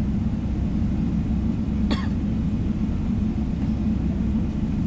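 Steady low rumble of cabin noise inside a Boeing 777-300ER airliner, with one short cough-like sound about two seconds in.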